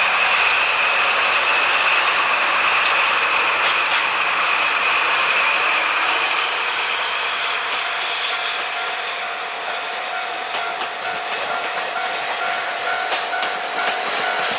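Train running on the track, its wheels clattering over the rail joints, with a high whine that fades over the first few seconds and clicks growing more frequent again near the end.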